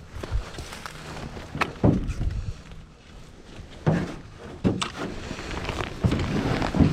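Canoe being paddled: irregular knocks and splashes of the paddle against the hull and water, about five in a few seconds.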